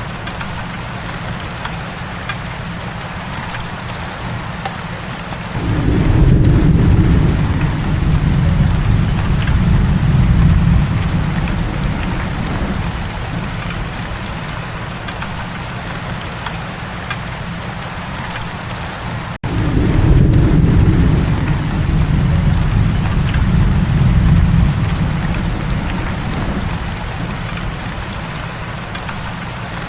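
Heavy rain falling steadily, with two long rolls of low thunder: one swelling about six seconds in and one starting right after a brief dropout near twenty seconds, each fading over several seconds.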